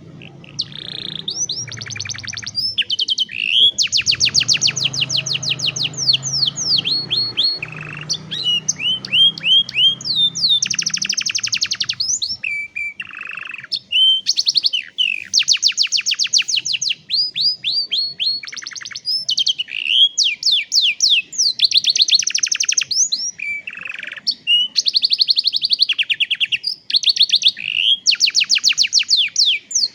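Canary singing a continuous, loud song made of fast trills and rolls, broken by short whistled glides and notes, with only brief pauses between phrases.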